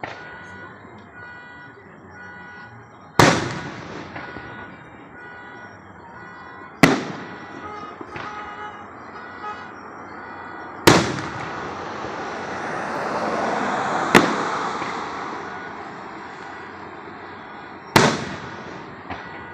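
Fireworks bursting overhead: five loud, sharp bangs a few seconds apart, each trailing off into a rumbling echo. Between the third and fourth bang a long rushing hiss swells and fades.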